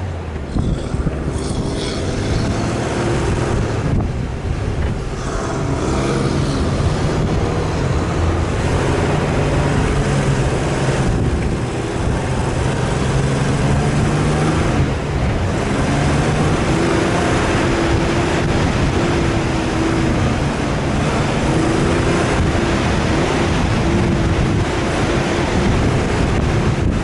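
Off-road vehicle engine running under load, its pitch rising and falling as the revs change, with a steady rush of wind noise on the microphone.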